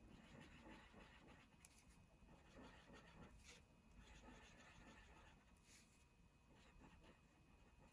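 Very faint marker-on-paper sounds over near silence: a few soft taps and light scratches of a marker tip dotting colour onto paper.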